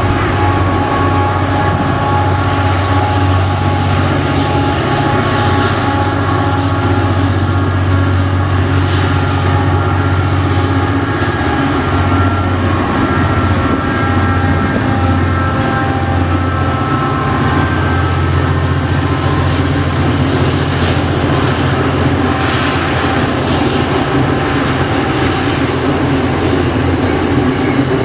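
Aurizon coal train passing: the diesel locomotives' engines running with a steady low drone, with several steady whining tones above it, then the coal wagons rolling by near the end.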